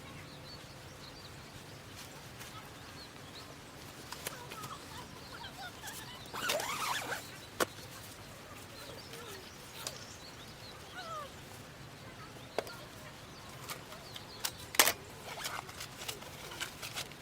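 Quiet outdoor ambience with scattered faint bird chirps. There is a brief scraping noise about six and a half seconds in, and a few sharp clicks, the loudest near the end.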